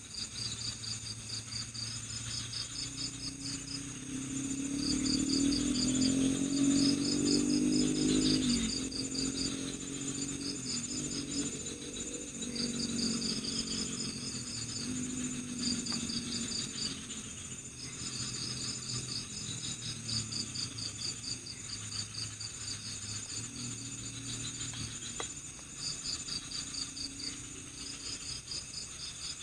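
Night forest chorus: crickets chirping in rapid pulsed trains over a steady high insect trill, with frogs calling low underneath, loudest from about four to eight seconds in.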